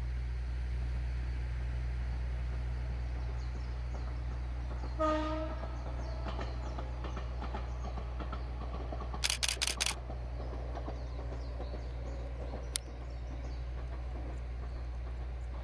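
A 6000 series electric train passing, sounding one short horn blast about five seconds in, followed by faint rail clatter. About halfway through comes a quick burst of camera shutter clicks, and a single click near the end.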